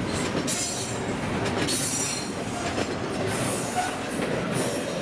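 Norfolk Southern intermodal freight train cars rolling past with a steady rumble of steel wheels on rail, broken by brief high-pitched wheel squeals several times.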